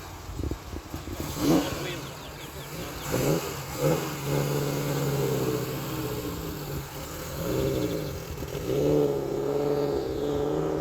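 Car engine revving, with a few quick blips in the first few seconds and then held revs that rise and fall several times.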